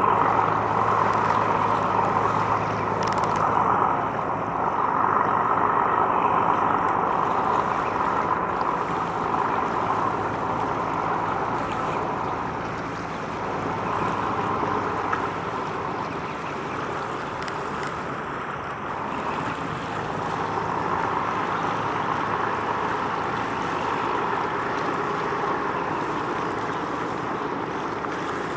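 Marine engine humming steadily over rushing water and wind; the engine's low tone fades about seven seconds in, leaving the water noise.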